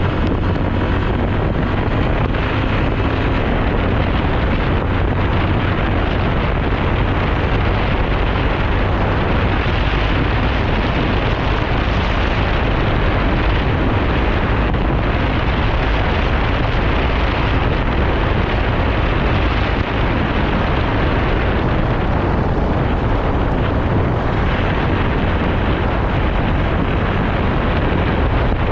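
Steady, loud wind rush over the microphone of a moving motorcycle, with the engine running underneath.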